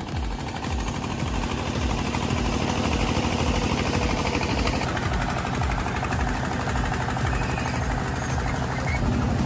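A heavy vehicle's engine running steadily with a low, even throb.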